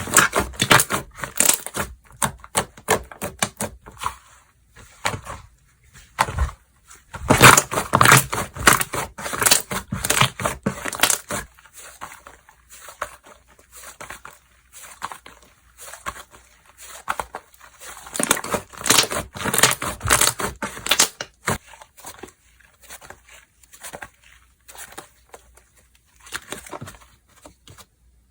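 Slime being squeezed, stretched and poked by hand: dense runs of sticky clicks and crackly pops. They come in two heavy spells, about a quarter of the way in and again past the middle, and thin out to scattered clicks near the end.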